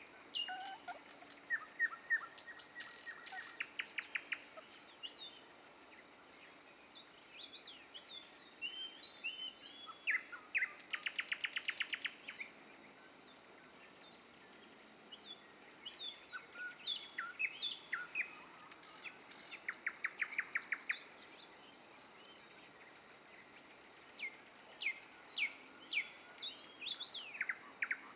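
Nightingale singing: phrases of clear whistles and fast runs of repeated notes, broken by pauses of a few seconds between phrases.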